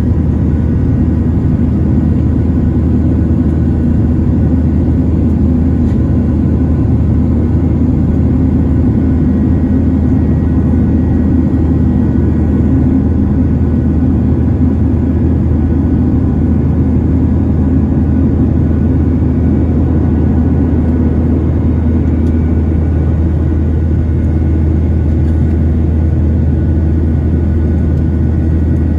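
Steady cabin noise inside a Boeing 737-900ER in flight: a deep, even rumble of its CFM56 engines and airflow, with faint steady whine tones above it.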